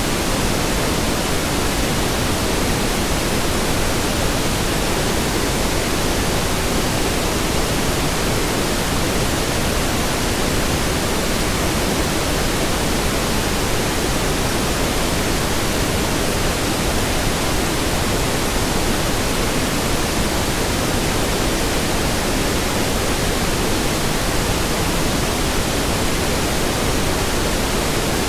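Steady pink noise: an even, constant hiss across the whole range, fuller in the lows than white noise, with no changes.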